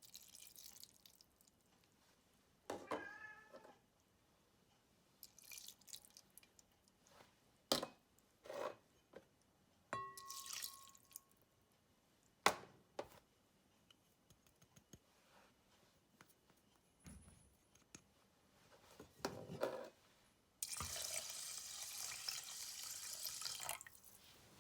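Kitchen work sounds: scattered light knocks and clinks, then a tap running water for about three seconds near the end.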